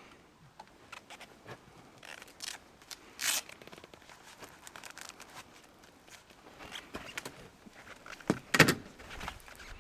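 Gear being handled and packed: scattered clicks and rustles, a short rustle about three seconds in, and a loud knock near the end.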